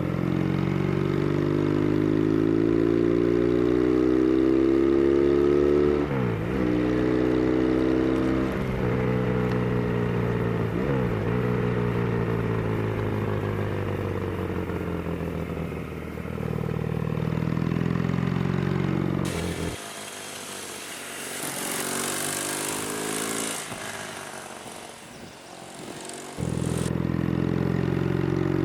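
Yamaha TX750 parallel-twin engine pulling uphill, its pitch rising under load and dropping sharply at two upshifts about 6 and 11 seconds in. About two-thirds of the way through the engine note drops away for several seconds under a rush of wind noise, then the engine comes back abruptly near the end.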